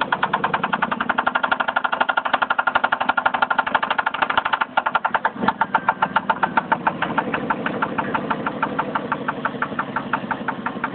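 Jeep 4.7L V8 idling with a rapid, even knock from the front of the engine, on the passenger side in front of cylinder 1. The owner takes it for timing chain slap.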